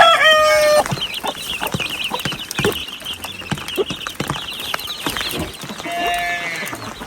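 A rooster crowing: the loud, drawn-out final note of the crow ends about a second in. It is followed by a few seconds of rapid high-pitched chirping and a short call near the end.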